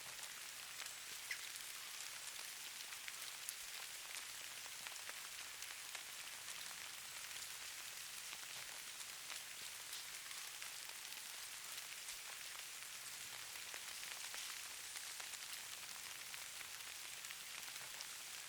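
Light precipitation pattering steadily: a faint, even hiss with many small scattered ticks of drops or flakes landing.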